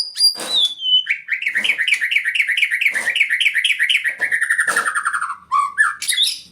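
White-rumped shama singing: a few high whistles, then a long fast run of repeated chirped notes, about five a second, drifting lower before breaking into a few lower notes near the end. A few short clicks sound beneath the song.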